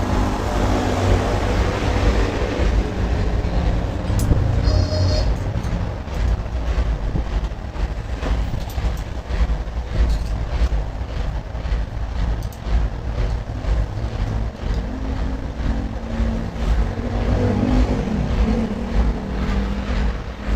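A vehicle engine runs with a steady low rumble, with scattered sharp clicks and knocks throughout.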